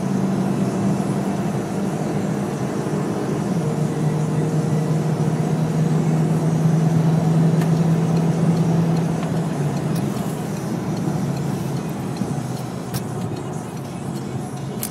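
Peugeot RCZ's 1.6 THP turbocharged four-cylinder engine running under way with tyre and road noise. It makes a steady drone that drops in pitch about four seconds in and holds there, then eases off near the end.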